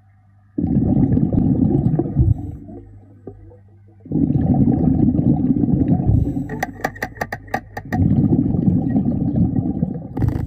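Scuba diver exhaling through a regulator underwater: three long bubbling rushes a few seconds apart, at the pace of breathing. A quick run of about eight sharp clicks sounds between the second and third breaths.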